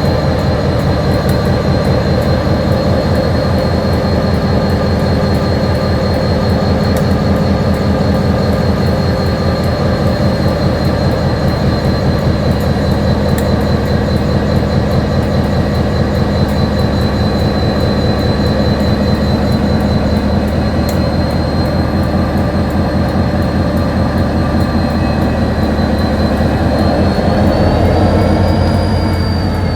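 Diesel-electric locomotive engine running steadily, with a fast low throb and a steady high whine over it; near the end the pitch briefly rises.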